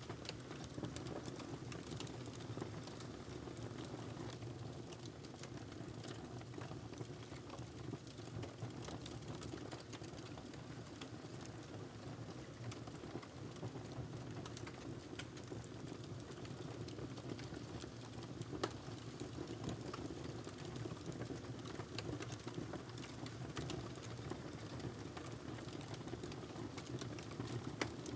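Wood fire burning in a fireplace, crackling steadily with scattered small pops over a low rumble. A sharper pop stands out about 19 s in, and another near the end.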